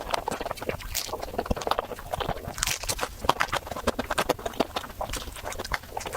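Close-miked chewing of crisp waffle with Nutella: irregular crunching and wet mouth sounds.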